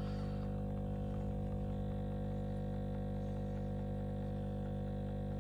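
De'Longhi Specialista Prestigio espresso machine's pump humming steadily while it pushes water through a double shot of espresso.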